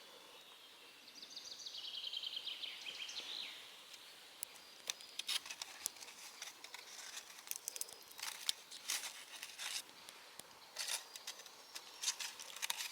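Wood campfire crackling, with irregular sharp snaps and pops from about four seconds in. Before that, a bird sings a fast trill that falls in pitch.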